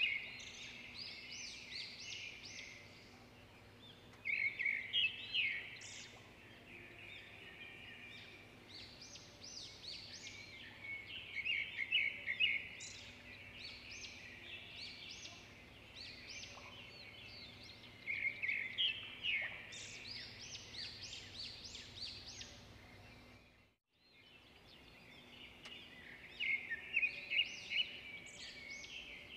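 Birds singing and chirping in short bouts of rapid high notes that come back every few seconds.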